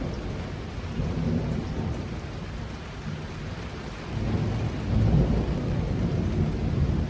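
Thunder rumbling over steady heavy rain. One low roll comes about a second in, and a louder one builds from about four seconds in, peaking near five seconds.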